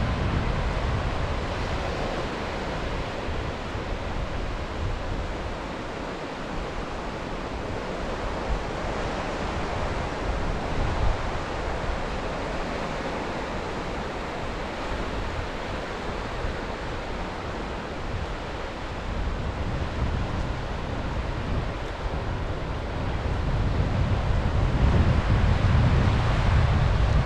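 Sea waves washing onto the shore in a steady wash of surf, with wind buffeting the microphone as a low rumble that swells again near the end.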